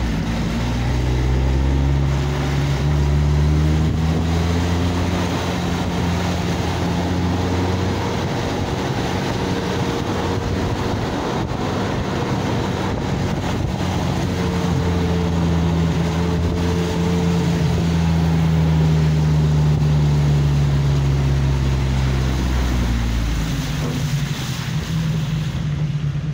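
Motor vehicle's engine running as it drives along, its pitch rising and falling slowly with speed, over steady road and wind noise. The engine pitch drops near the end as it slows.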